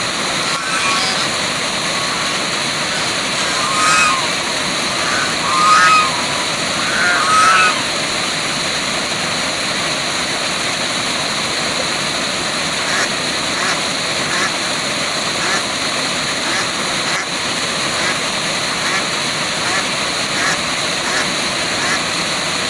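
Waterfall running as a steady rush of water, with a few short bird calls over it in the first eight seconds and fainter ones later.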